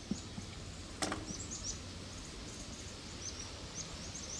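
Small songbirds giving many short, high chirps over a steady outdoor background hiss, with one sharp click about a second in.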